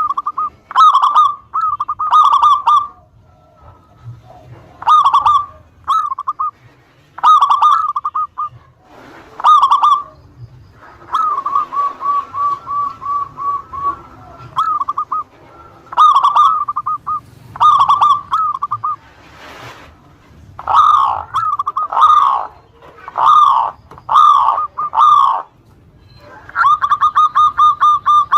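Zebra doves (perkutut) cooing: repeated short phrases of quick, ringing notes with brief pauses between them. In the middle, and again near the end, the notes run into a longer, even string of rapid beats.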